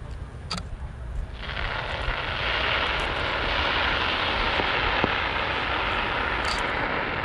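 Fireworks giving off a dense, steady hissing crackle that starts suddenly about a second and a half in and holds, with a low rumble under it and a couple of faint sharp pops.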